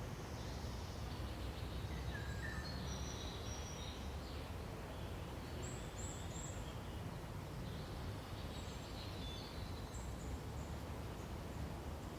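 Forest birds giving scattered short high chirps and calls over a steady low background rumble.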